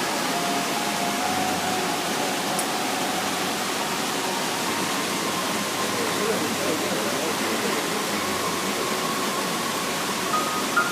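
Waterfall, a steady even rushing of falling water. A faint tone comes in over it near the end.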